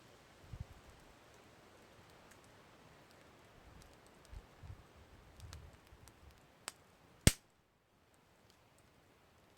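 Wood campfire crackling: sparse faint pops and ticks, with one loud, sharp pop about seven seconds in.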